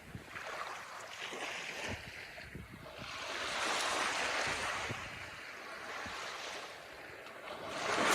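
Ocean surf: waves breaking and washing in, one wash swelling about three seconds in and fading, and another building near the end, with wind.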